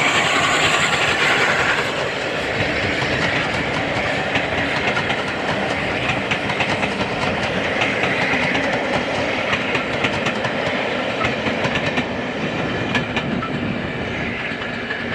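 Steam-hauled passenger train rolling past, its wheels clicking over the rail joints. It is loudest in the first two seconds and fades near the end.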